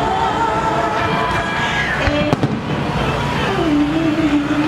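Fireworks display: a few sharp bangs over continuous crackling, with music playing at the same time.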